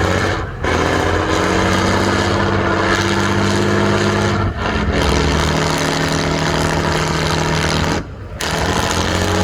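Off-road trial truck's diesel engine running hard under load, its pitch slowly climbing, with brief drops in revs about half a second, four and a half, and eight seconds in.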